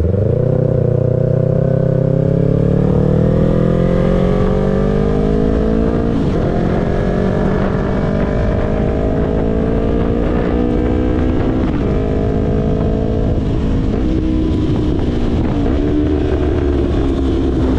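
Yamaha YZF-R3's 321 cc parallel-twin engine pulling the bike along, its pitch climbing slowly with small breaks about 6 and 12 seconds in, then settling lower and holding fairly steady near the end. Constant wind rush on the helmet-mounted microphone runs under it.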